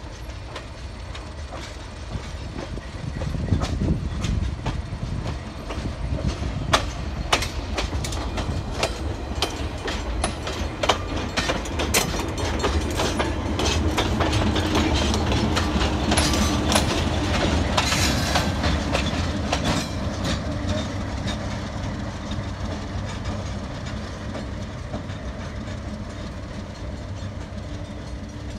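Budd RDC-1 rail diesel car and MLW S-13 diesel switcher passing, with engines rumbling and wheels clicking over the track. The clicks come thick through the middle as the cars go by, and the rumble grows loudest then eases as the train moves away.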